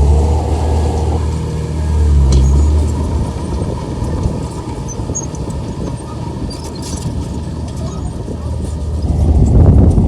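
Komatsu bulldozer's diesel engine running under load, a loud low drone that eases off after the first few seconds and builds again near the end, with faint clicks and rattles from the machine.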